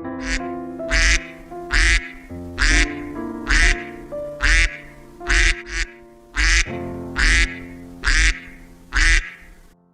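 Duck quacking over and over, about a dozen loud quacks at roughly one a second, over light background music.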